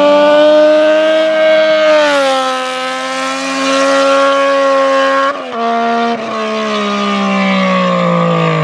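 Yamaha MT-09's three-cylinder engine through a straight pipe with no silencer, held at high revs. About two seconds in the pitch drops, then it keeps falling slowly, with two brief breaks in the sound.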